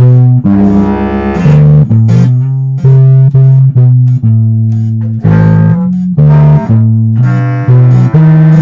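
Instrumental music led by electric bass and guitar: a line of loud low plucked notes, each lasting about half a second to a second, with higher guitar notes over them.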